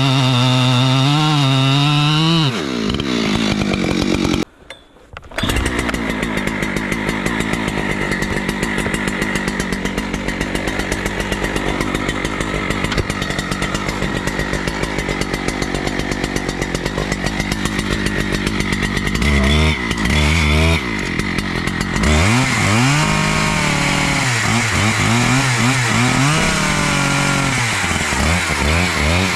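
Chainsaw cutting into a tree trunk. The engine runs at high revs, steady under load through most of the cut, with a brief drop-out about five seconds in. Near the end the revs rise and fall repeatedly.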